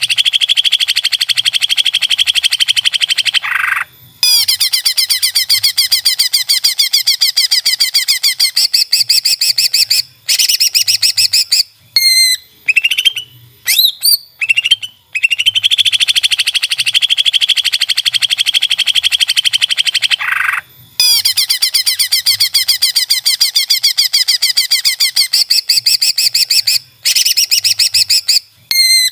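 Greater green leafbird (cucak ijo) singing: long, very fast trilling runs broken by short gaps with brief whistled notes. The same sequence of trills starts over about halfway through, as in a looped training recording.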